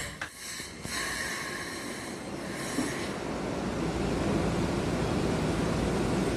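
Steady rushing noise of electric trains standing idle at a station platform, with faint high steady tones in the first couple of seconds.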